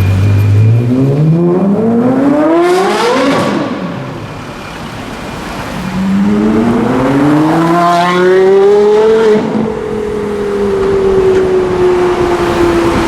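Porsche Carrera GT's 5.7-litre V10, fitted with a straight-through exhaust with the cats removed, accelerating hard. Its note rises steeply for about three seconds and breaks off. It climbs again in a second run from about six to nine seconds in, then settles into a steady, slowly falling note.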